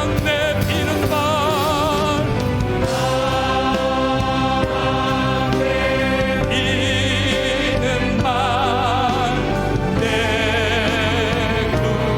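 Church praise band and singers performing a worship song: several voices hold long notes with wide vibrato over sustained keyboard chords and a low bass line.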